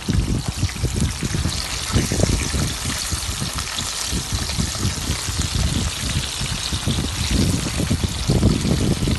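Battered onion rings frying in hot oil, a steady sizzle with dense crackling as they are turned over.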